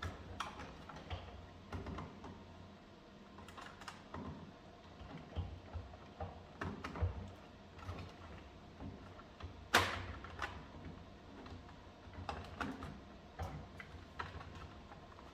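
Irregular light clicks, taps and small knocks of parts and tools being handled during work on a cordless vacuum's battery pack, with one sharper, louder click about ten seconds in.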